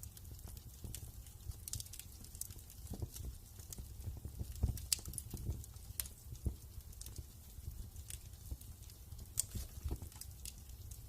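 Wood fire crackling in a fireplace: irregular sharp pops and snaps of varied loudness over a steady low rumble of the flames, with the strongest pops about five seconds in.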